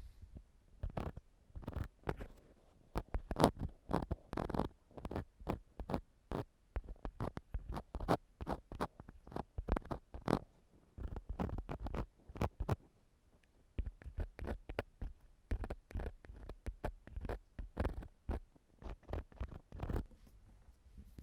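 An ear-cleaning tool scraping and scratching on a binaural microphone's ear in short, irregular strokes, several a second, with a brief pause a little past the middle.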